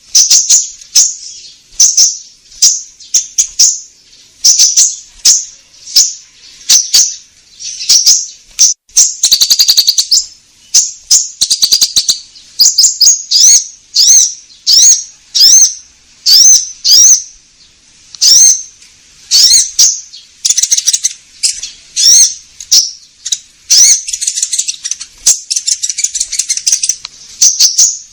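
Konin songbird singing energetically: a long run of sharp, high chirps and whistled notes, about two a second, with a rapid trill about ten seconds in and buzzier chattering phrases later on.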